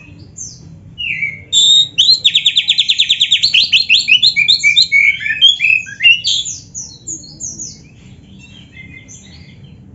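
Oriental magpie-robin (kacer) singing a loud, varied song of whistled phrases, with a fast trill of rapid repeated notes about two seconds in; the song thins to quieter scattered notes near the end.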